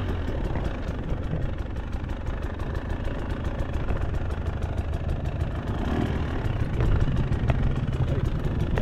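KTM two-stroke enduro dirt bike engine running at low revs, creeping along, rising a little near the end.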